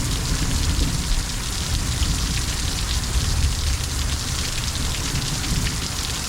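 Heavy downpour of rain pelting down and splashing on hard surfaces, a dense steady hiss with fine crackle of drops and a low rumble beneath.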